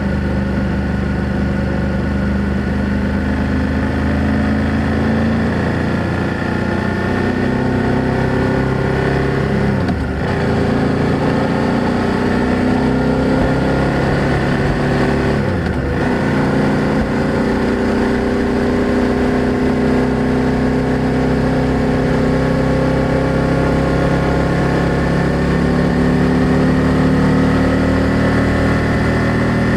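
BMW F800GS motorcycle's parallel-twin engine and exhaust running under way, heard from the rider's seat; the revs climb gently, with two brief dips about ten and sixteen seconds in.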